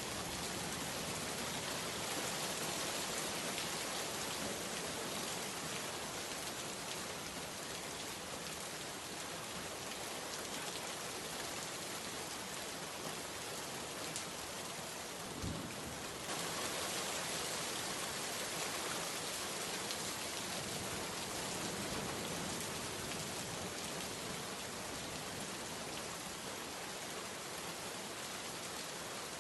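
Steady rainstorm: an even hiss of heavy rain falling, with one brief low thump about halfway through.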